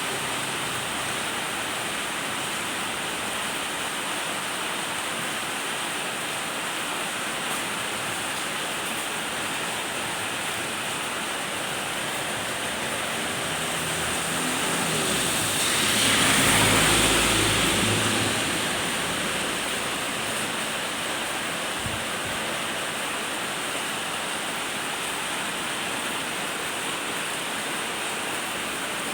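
Steady rain falling, an even hiss throughout. About halfway through, a passing vehicle swells up and fades away over a few seconds.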